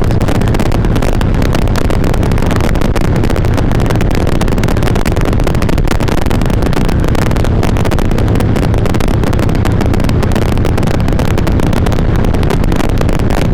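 Harley-Davidson V-twin motorcycle engine and exhaust running steadily while riding, with wind rush over a helmet-mounted mic.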